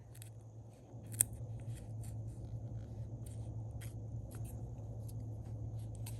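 Small handling sounds of paper and stickers being worked on a planner: light ticks, taps and rustles, with one sharp click about a second in. A steady low hum runs underneath and grows stronger after the click.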